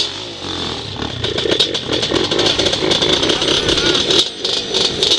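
Off-road engine running close by with a rapid, even pulsing beat.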